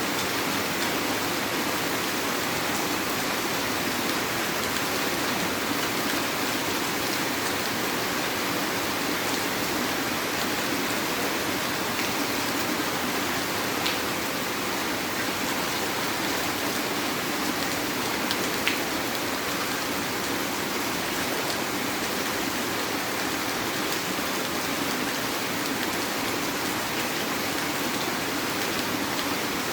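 Heavy rain falling steadily, a dense even hiss with a few sharper drops now and then.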